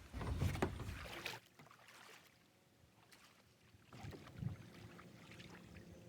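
Kayak being paddled out on a lake: paddle and water sounds around the hull, with a louder rush in the first second or so, then quieter scattered splashes and knocks.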